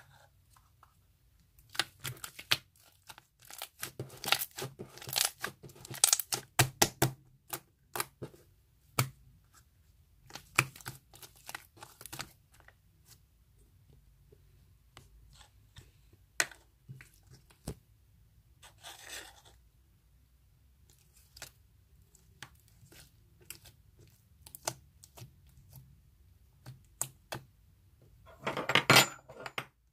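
Irregular crackling and clicking of something being handled, heaviest in the first third. A short rustle comes in the middle, and a louder dense burst of crackling near the end.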